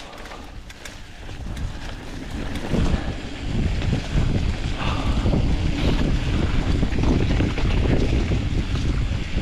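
Wind buffeting the camera microphone during a fast mountain bike descent, with rumble and a few sharp rattles from the bike over the trail; the wind noise swells about three seconds in as speed picks up and then stays loud.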